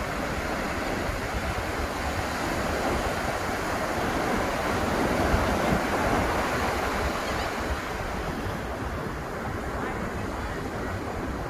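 Ocean surf breaking and washing up on a sandy beach as a continuous roar of noise that swells to a peak about halfway through, then eases.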